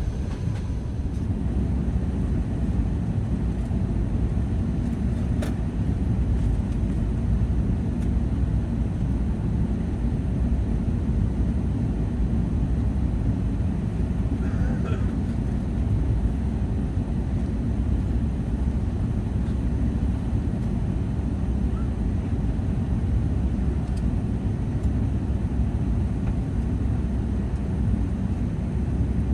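Steady low rumble inside the cabin of an Airbus A380: engine and airframe noise with the aircraft about to take off. A few faint clicks sound over it.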